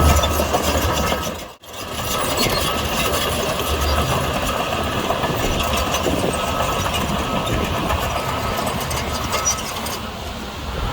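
Diesel engine of heavy earthmoving machinery running steadily. The sound drops out for a moment about a second and a half in.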